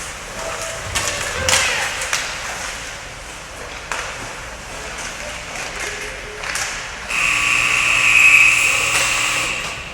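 Arena horn sounding one steady blast of about three seconds, starting about seven seconds in. A few sharp knocks come before it.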